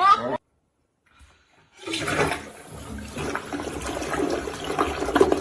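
Rushing water that starts about two seconds in, after a short silence, and runs on unevenly. Just before the silence, a pitched animal call is cut off.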